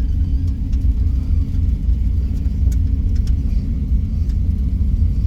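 1989 Camaro IROC with a 5.3-litre LS swap rolling slowly through a turn: a steady low rumble of engine and road, with a faint intermittent scraping. The terrible rear-end noise, suspected to be broken spider gears, is not sounding at the moment.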